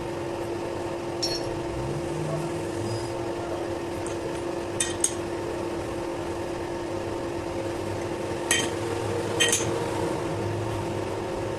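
A steady machine motor hum, with about five short metallic clinks and taps of metal striking metal over it.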